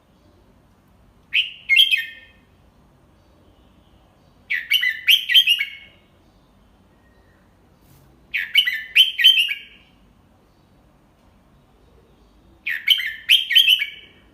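Red-whiskered bulbul singing: four short song phrases of quick, clear notes, about three to four seconds apart.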